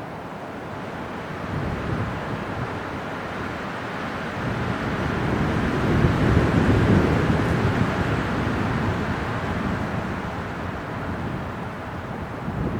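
Winter wind blowing in gusts, a rushing noise that builds to a strong gust about halfway through and then eases off.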